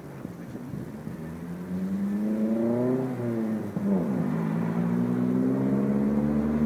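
Motor vehicle engine revving up, its pitch rising, then dropping sharply about four seconds in and running on at a steady, higher level.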